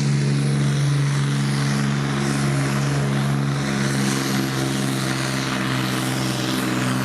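Diesel engine of a Supersport pulling truck running hard at steady revs, a constant deep drone over heavy mechanical noise.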